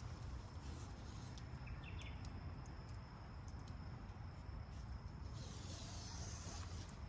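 Insects droning steadily at one high pitch over a low rumble, with scattered light clicks and a short hiss about five and a half seconds in.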